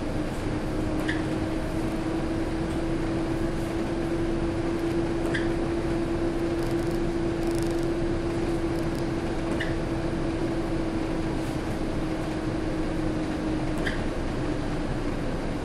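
Steady mechanical hum of a Scania K230UB bus running, with one held tone that rises slightly and eases back. A faint short chirp sounds about every four seconds, four times.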